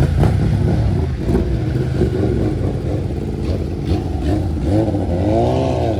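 Loud car engine running with a rough, uneven note, revved once near the end: the pitch rises and falls back.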